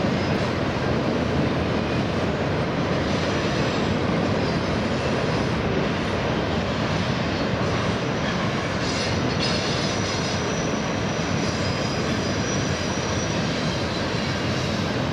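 Freight train cars rolling steadily across a steel truss bridge: a continuous even rumble of wheels on rail.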